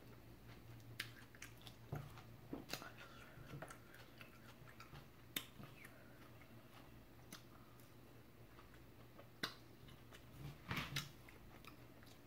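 A person chewing and lip-smacking while eating, faint, with scattered short mouth clicks. A steady low hum runs underneath.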